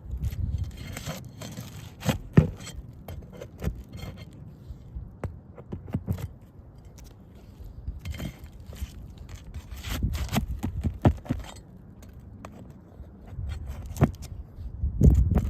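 Irregular scraping and sharp clicks and knocks of a tool working against asphalt shingles as roofing nails are pried out and the shingle is worked loose.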